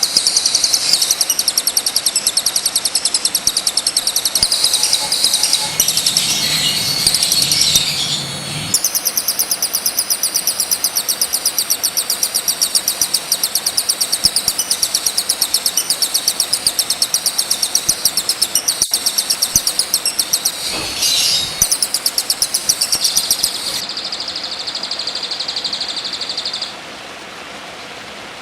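A songbird's fast, high-pitched chirping, the same note repeated many times a second in a long even run, from a bird-song training recording. Near the end the chirping stops and a steady rain-like hiss remains.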